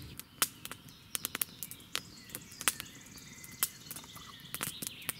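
Forest ambience: faint bird calls with many scattered sharp clicks throughout.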